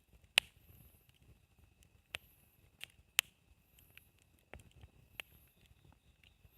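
Wood campfire crackling, with scattered sharp pops as the burning wood snaps; the two loudest come about half a second in and about three seconds in.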